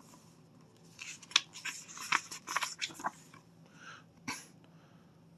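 Paper rustling and crinkling in a quick run of small crackles as a picture book's page is turned, with a short soft rustle near the end.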